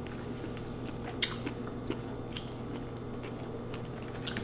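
Close-miked chewing and wet mouth sounds of someone eating lo mein, with small clicks and one sharp crack about a second in. Under it runs a steady low refrigerator hum.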